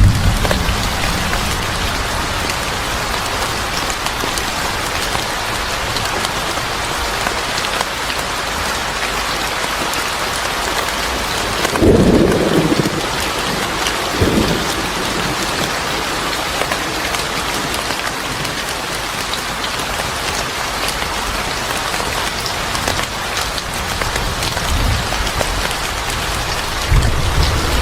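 Steady rain with rolling thunder: low rumbles near the start and end, and a loud thunderclap about twelve seconds in, followed by a smaller one about two seconds later.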